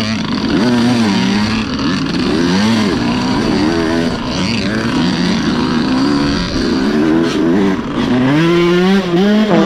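Dirt bike engine revving up and down again and again as it is ridden along a trail, with a longer climb in pitch near the end.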